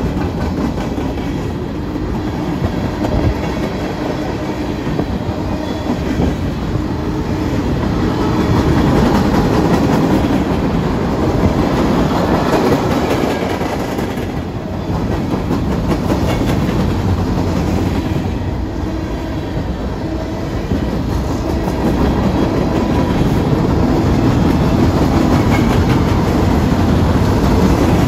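Freight cars of a long mixed freight train rolling past close by: the steady noise of steel wheels on the rails, swelling and easing slightly as the cars go by.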